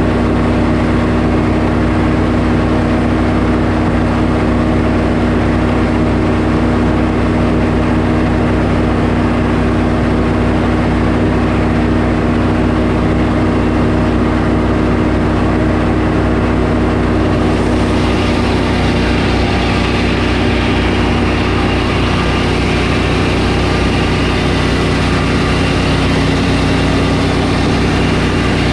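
Sawmill engine running steadily at constant speed. About two-thirds of the way through a brighter, hissier sound joins in and stays.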